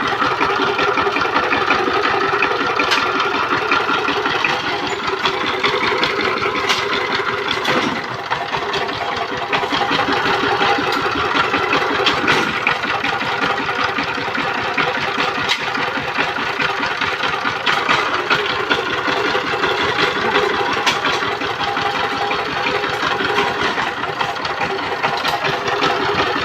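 Power tiller's diesel engine running steadily with a rapid, even firing beat, dipping briefly about eight seconds in.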